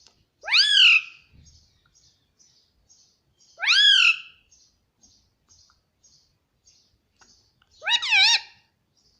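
Indian ringneck parrot giving three loud, separate calls, each about half a second long, sweeping up in pitch and falling away, a few seconds apart.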